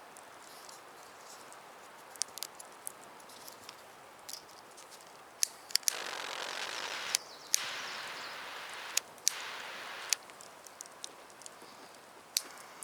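Butane gas lighter hissing in three bursts, each opened and closed by a sharp click, with scattered small clicks and ticks around them.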